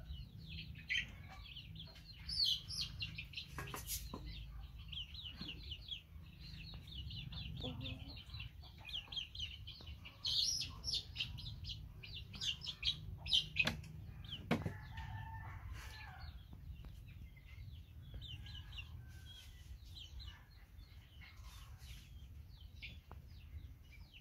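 Birds chirping: long runs of quick, high chirps, with a steady low hum underneath and a few sharp knocks, the loudest about a third and two-thirds of the way in.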